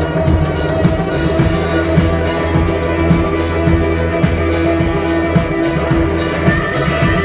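A Turkish psychedelic folk-rock band playing an instrumental passage live, with a drum kit keeping a steady beat of cymbal strokes over a bass line and held melodic notes.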